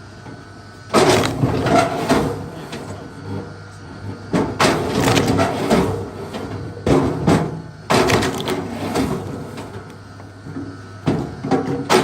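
Wood splitting and cracking apart in about five separate bursts of splintering, each starting suddenly and lasting a second or two.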